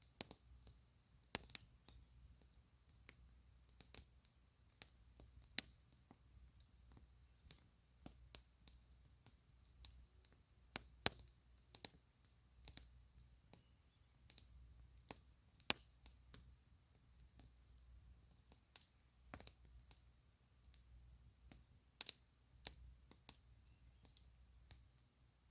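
Campfire burning quietly, the wood giving off sparse, irregular sharp crackles and pops, roughly one or two a second, over a faint low rumble.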